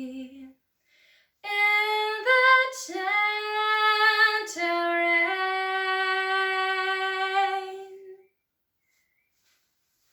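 A woman singing solo without accompaniment: a held note ends, then after a short pause she sings a closing melodic phrase with no words, taking two quick breaths, and lets the last note fade.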